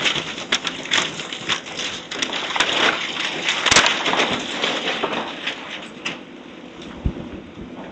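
House demolition: wood and debris cracking, crashing and scraping in a run of irregular knocks, the loudest crack about four seconds in, the sound thinning out over the last few seconds.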